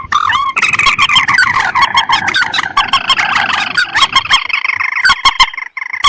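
Lure recording of rice-field rails and crakes (mandar and tikusan) calling: short rising notes repeated quickly, swelling about half a second in to a dense, layered chorus of calls and sharp clicks, which thins to scattered notes near the end.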